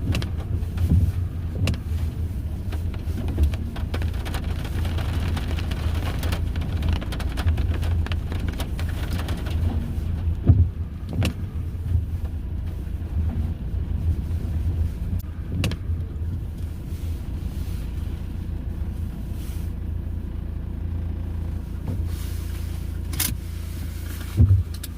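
A vehicle's engine running with a steady low rumble, heard from inside the vehicle, with a few short clicks and knocks scattered through it.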